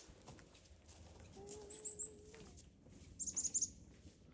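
Wild birds calling: three short high chirps about two seconds in, then a quick run of about five high descending notes near the end.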